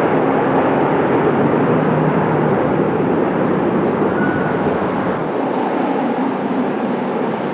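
Airliner engines rumbling steadily on landing, mixed with wind rushing on the microphone in a strong crosswind. The highest hiss drops out abruptly about five seconds in.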